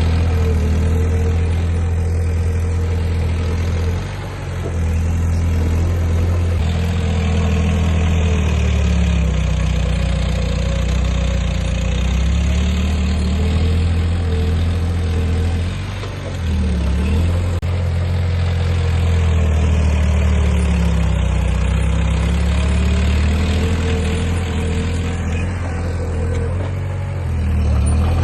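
Heavy diesel engine of earthmoving machinery running steadily, its pitch sagging and recovering several times as the load changes, with brief dips in level about four and sixteen seconds in.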